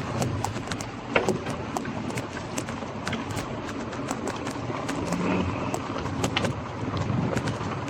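Scott Scale gravel bike being ridden along a street: a steady rush of tyre and wind noise with frequent irregular clicks and rattles.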